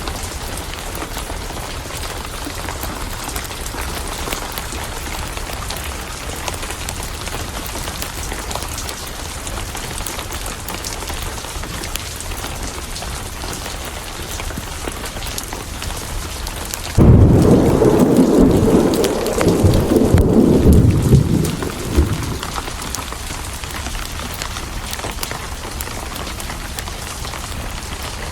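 Steady rain with a sudden clap of thunder about seventeen seconds in, rumbling on for about five seconds before dying away.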